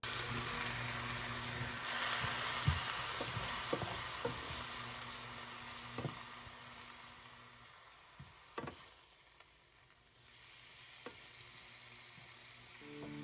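Food sizzling in a frying pan, with a few sharp clicks of a utensil against the pan. The sizzle fades toward quiet about two-thirds of the way through.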